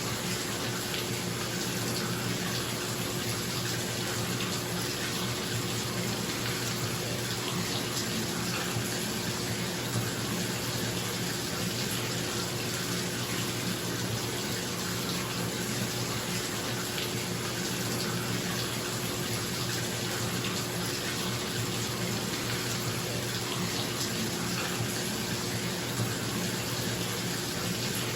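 Bathtub tap running steadily into the tub, a constant rushing of water, with a bathroom exhaust fan's steady low hum underneath.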